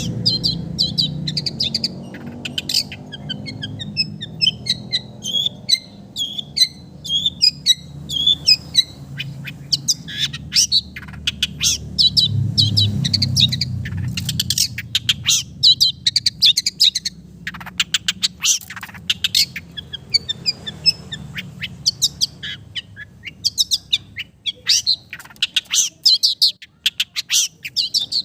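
Long-tailed shrike (cendet) singing: rapid series of sharp, high chirps and short trills in bursts, part of its song mimicking other birds. A low rumble runs underneath.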